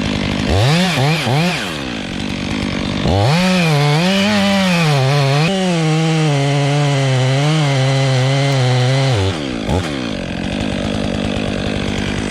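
Chainsaw revved three times in quick succession, then held at full throttle for about six seconds, its pitch sagging and wavering as it cuts through wood, before dropping back to a lower running note.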